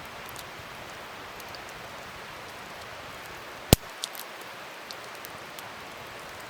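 Wood fire burning with a steady hiss and scattered small crackles, and one sharp, loud pop a little past halfway.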